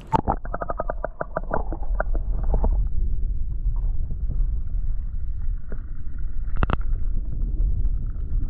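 Muffled underwater sound from a waterproof GoPro dipped into canal water: a splash as it goes in, then a quick run of clicks and bubbling for the first few seconds, settling into a steady low rumble with a single sharp knock later on.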